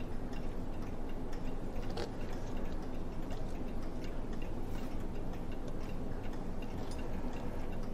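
Mechanical clock ticking steadily and faintly, over a low steady hum, with one slightly sharper click about two seconds in.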